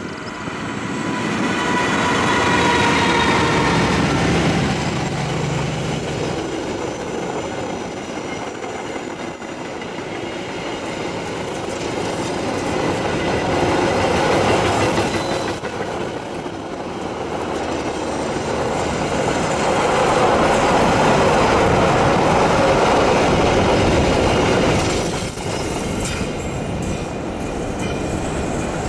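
A KAI CC206 diesel-electric locomotive passes close by, engine loud, with a high drawn-out tone that drops a little in pitch over the first few seconds. Then a long train of passenger coaches rolls past, wheels clattering over the rail joints on the curve, loudest about two-thirds through, and easing off as the train moves away.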